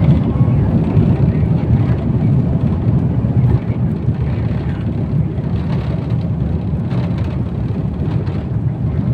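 Airliner cabin noise during the takeoff roll: a steady, loud, low rumble of the engines at takeoff power as the plane speeds down the runway.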